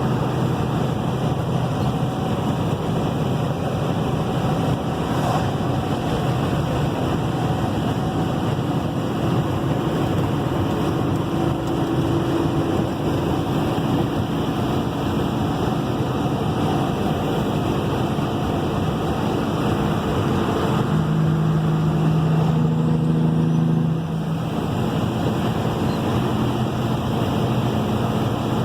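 Caterpillar 3406E inline-six diesel in a Kenworth W900 running under way through 8-inch straight pipes, a steady drone. Near the end it holds a louder, steadier tone for about three seconds, then drops off suddenly.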